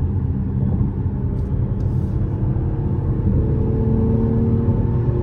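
Mercedes-AMG GLE 53's turbocharged inline-six running while driving, over a steady low road rumble; the engine note rises gently in the second half.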